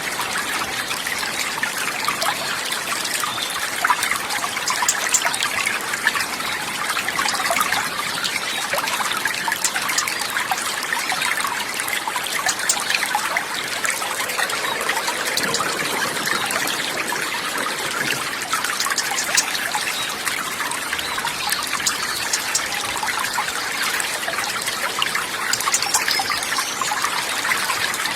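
Running water trickling and splashing steadily, a continuous hiss dotted with small droplet ticks and no change in level.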